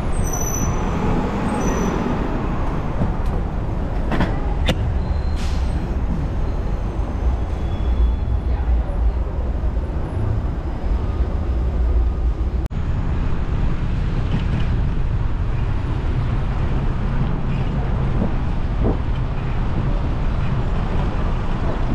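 City road traffic heard from a moving bicycle: a steady low rumble of passing vehicles, with a few sharp clicks about four to five seconds in.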